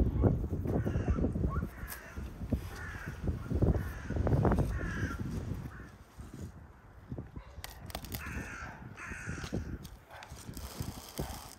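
A bird calling in two runs of short repeated calls, about two a second, over the rustle of cabbage leaves being handled and trimmed with a knife. The leaf rustling is loudest in the first five seconds.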